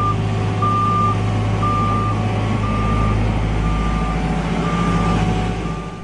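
Electronic toy construction-vehicle sound effect: a steady recorded engine rumble with a reversing beeper sounding about once a second, cutting off abruptly at the end.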